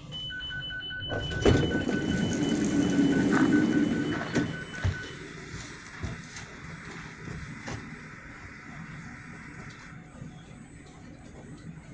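Commuter train door-closing warning: rapid beeping in two pitches for about five seconds while the sliding doors shut, with a heavy knock about a second and a half in and further knocks near four and five seconds.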